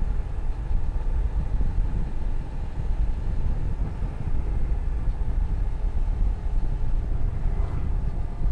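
A motorcycle under way: a steady low rumble of wind buffeting the rider's microphone, with the engine running underneath.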